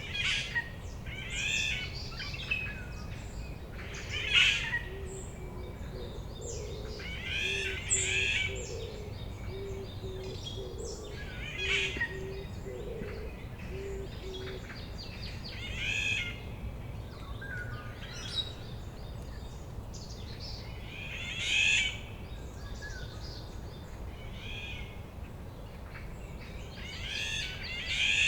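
Songbirds singing in a forest at dawn: one bird repeats a short, fluttering song phrase every few seconds. Faint, low, evenly spaced hoots, about one a second, join in from about five seconds in and stop about halfway through.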